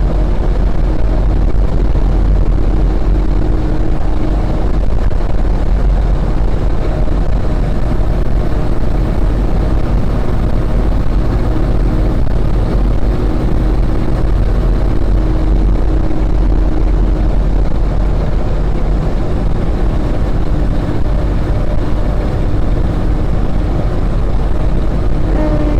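Fire engine driving on the road, heard from inside the cab: a loud, steady rumble of engine and road noise with a faint steady hum.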